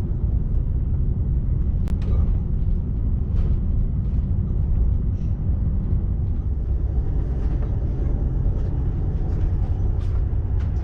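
Steady low rumble of an ÖBB Railjet passenger coach running along the track, heard from inside the cabin, with a few faint clicks.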